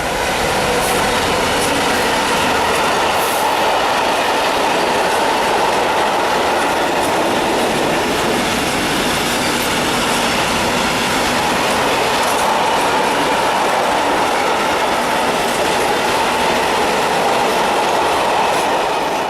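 A train passing close by, its wheels running on the rails in a loud, steady rush, with a few faint clicks over the rail joints. The noise drops away right at the end as the train clears.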